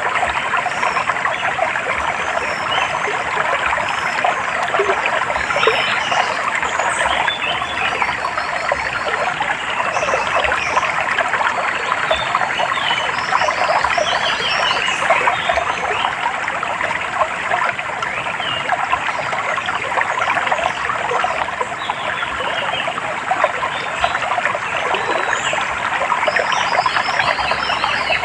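Small stream trickling and babbling steadily over stones, with birds chirping in short, high calls scattered through it.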